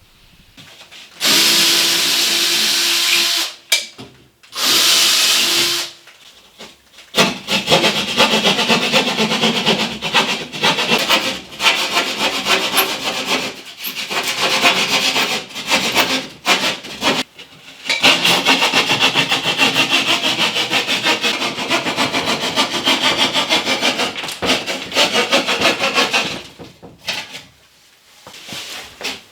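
Two short runs of a power tool, then wood being sawn by hand with quick back-and-forth strokes for about twenty seconds, with a few brief pauses.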